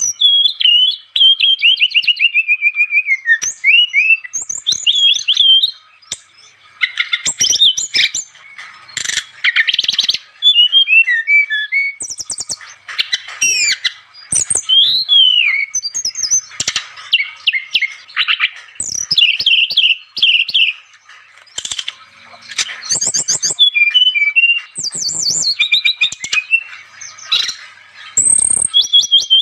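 SRDC songbird singing continuously in a varied, busy song of quick chattering trills, rapid note runs and sweeping whistles, with short lulls about six seconds in and again near 22 seconds.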